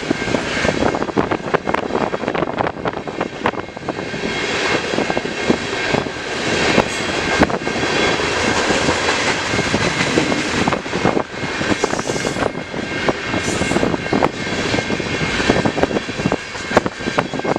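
Mixed manifest freight train cars rolling past close by: a steady roar of steel wheels on rail, with rapid clicking and clatter throughout.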